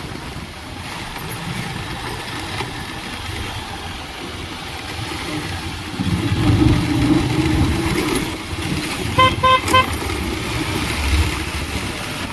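Vehicle horn beeping three short times, a little past the middle, over a running motorcycle engine and road noise, with a louder engine rumble a few seconds before.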